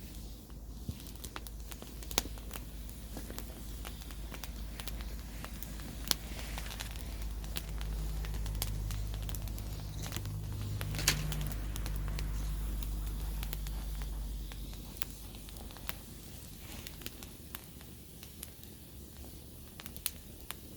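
Wood campfire crackling with scattered sharp pops, the loudest about eleven seconds in. A low hum swells in the middle and fades again.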